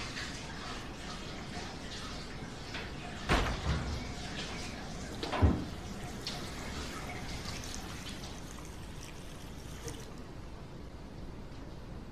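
Steady quiet room tone with two sharp thuds, about three and five and a half seconds in, the second one louder.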